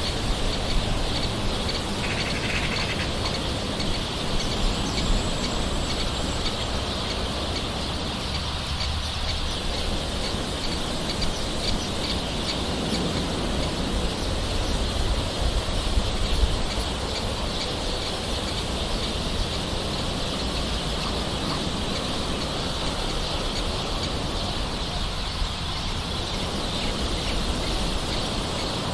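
Steady patter of soft rain with birds calling in the background, including a brief high whistle a few seconds in.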